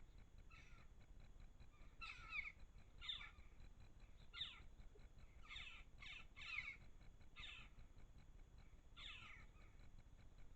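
A garden bird calling repeatedly: about a dozen short calls, spaced irregularly, some in quick pairs.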